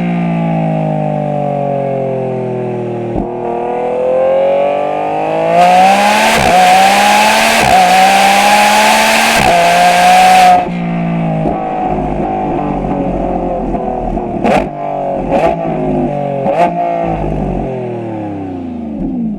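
Lamborghini Revuelto's hybrid 6.5-litre V12 through a QuickSilver stainless cat-back exhaust. Revs first fall off the throttle, then climb into a hard, very loud full-throttle pull about six seconds in, broken by quick upshifts. The throttle lifts about ten seconds in, followed by a few sharp cracks on gear changes as the revs fall away.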